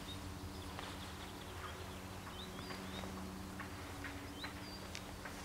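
Small songbirds chirping: short up-and-down calls every second or so over a faint, steady low hum.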